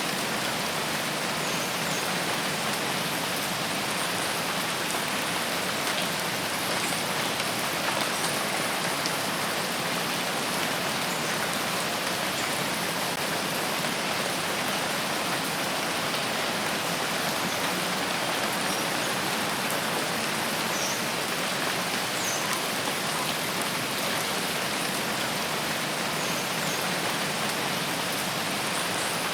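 Steady rainfall in a rain forest, an even hiss of rain landing on foliage and ground that keeps the same level throughout.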